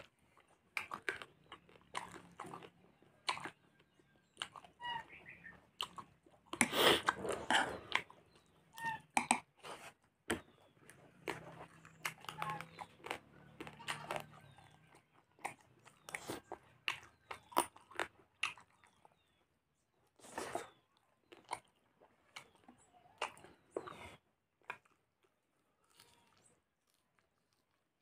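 Close-up chewing and smacking of a person eating rice and chicken with his hands, in short, irregular wet clicks and crunches. The sounds come thickest about a quarter of the way in and thin out toward the end.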